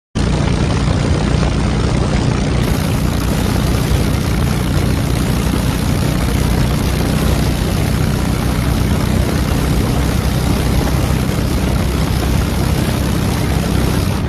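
Bobber motorcycle's engine running steadily, its low note held under a loud, even rushing noise with no revving.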